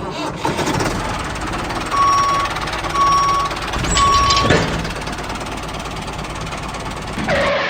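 Reversing alarm beeping three times, about a second apart, over a steady mechanical running noise.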